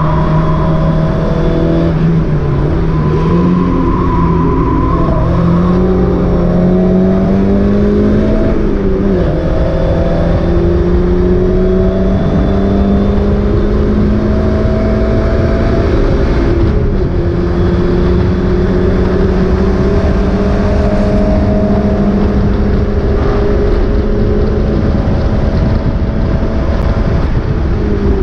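Mazda MX-5 race car's four-cylinder engine heard from inside the car, pulling steadily under load. Its pitch climbs slowly and drops back at gear changes, twice early on and again around the middle, over heavy wind and road noise. The engine is running with a misfire.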